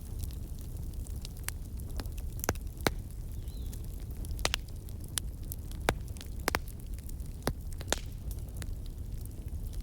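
Wood fire crackling: irregular sharp pops over a steady low rumble.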